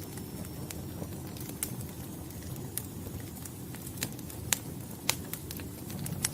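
Wood fire in a fireplace crackling: a steady low rumble of flames with sharp pops every second or so, the loudest about four and a half and five seconds in.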